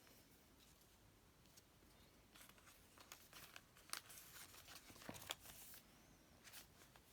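Faint paper handling over quiet room tone: soft rustles, crinkles and light taps, most of them between about two and six seconds in.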